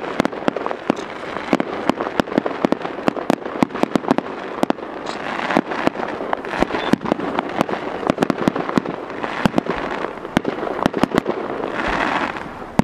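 Fireworks display: aerial shells bursting overhead in a rapid, irregular string of sharp bangs and crackling pops, several a second.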